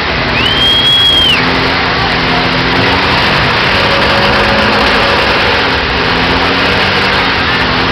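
Scania truck running with loud, dense engine and road noise. A brief high whistle sounds about half a second in and lasts about a second.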